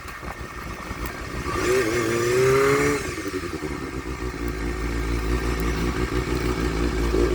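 Honda Hornet motorcycle engine with an aftermarket twin muffler, blipped once about a second and a half in so the pitch rises and then falls back. It then settles to a steady idle with a deep low exhaust note.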